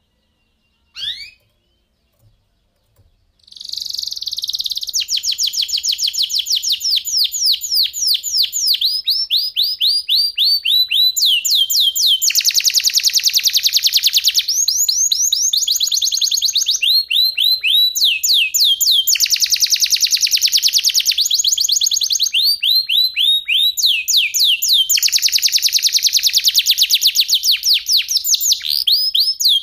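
Domestic canary singing: a short chirp about a second in, then a long unbroken song of fast repeated high notes, changing from one trill to the next every couple of seconds.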